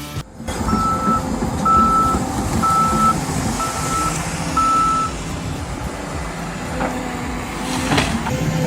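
A heavy machine's reversing alarm beeping five times, about once a second, over its engine running steadily.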